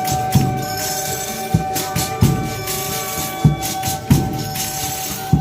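Folia de Reis ensemble playing: tambourine jingling over drum beats that fall about once a second, with steady held notes underneath.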